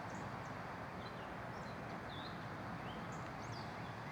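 Outdoor background hiss with scattered faint bird chirps and short slurred whistles from small songbirds.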